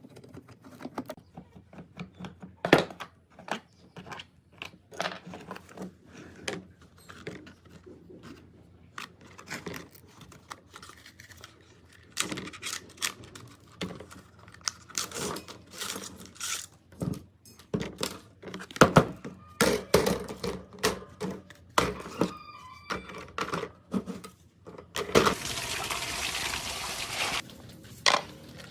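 Repeated clicks and knocks of hand tools and small parts being handled. Near the end comes a steady hiss of about two and a half seconds that stops abruptly.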